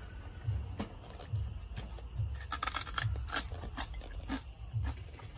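Close-miked chewing of crunchy pork rinds (chicharon): a steady rhythm of low chewing thumps, with a burst of crisp crunching a little past halfway through.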